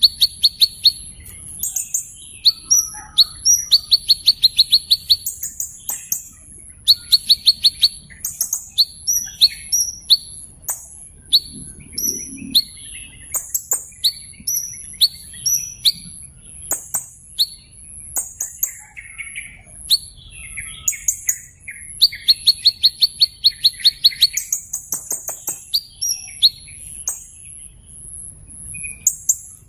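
Small bird calling in a long series of high, sharp chirps and quick rattling trills, in bursts every second or two, over a steady high-pitched tone.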